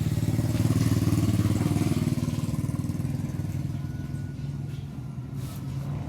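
A motor vehicle's engine running, loudest in the first couple of seconds and then gradually fading as it moves away.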